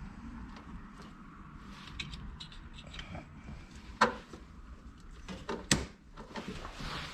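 Handling and rustling noises with two sharp clicks, the louder about four seconds in and another just before six seconds, as the original fuel pump relay is plugged back into its socket.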